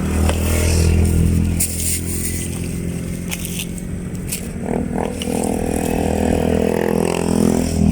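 Motor vehicle engines running on the road, a steady low drone that swells about a second in and again near the end. A few sharp clicks and clatters sound over it.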